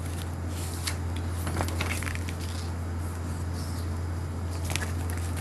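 Steady low hum with a few faint, scattered clicks and rustles.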